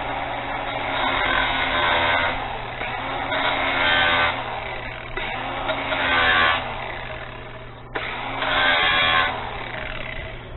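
Angle grinder running and cutting through steel wire rope. Its steady motor hum is broken by four louder, harsher passes about two seconds apart as the disc bites into the cable, with a brief break just before the last one.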